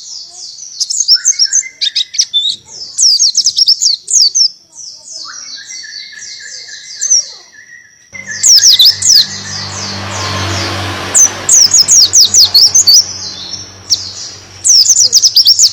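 Pleci buxtoni white-eye singing in rapid bursts of high, fast trills and sweeping chirps, the canary-like 'tembakan' phrasing. About halfway through, a steady low hum and hiss come in under the song.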